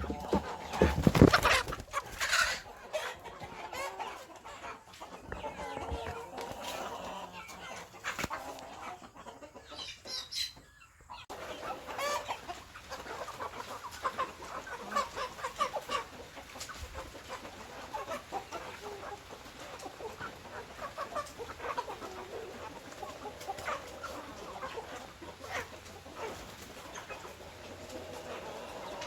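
A flock of chickens clucking, with many short calls overlapping. There is a loud thump about a second in and a brief drop-out just past the middle.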